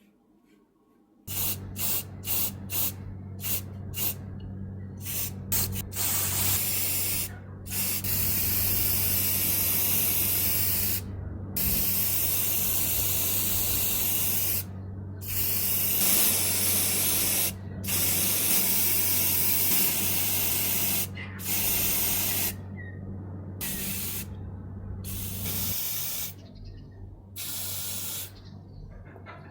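Paint spraying in hissing passes, a run of short bursts at first, then longer strokes of a few seconds each. A steady low motor hum runs underneath and stops near the end.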